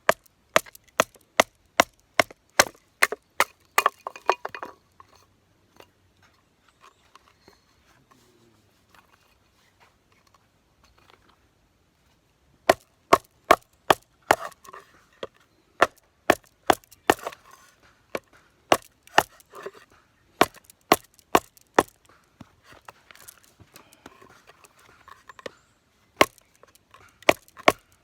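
Batoning firewood: a wooden baton knocking on the spine of a Mora Garberg knife to split wood, in quick sharp strikes about three a second. The strikes stop for several seconds about four seconds in, then start again.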